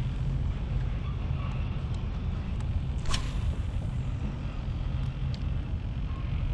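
Steady wind rumbling on the microphone, and about three seconds in a single fishing cast: a sharp swish of the rod and light braided line running off the reel, fading away within about a second.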